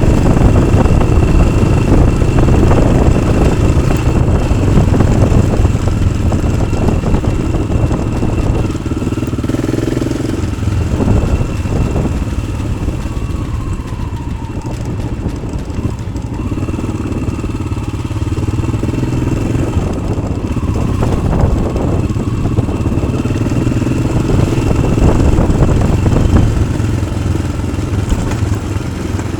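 Yamaha XT600's single-cylinder four-stroke engine, fitted with an Arrow aftermarket exhaust, running while the bike is ridden, the throttle opening and easing off. It is louder over the first few seconds, quieter through the middle and picks up again near the end.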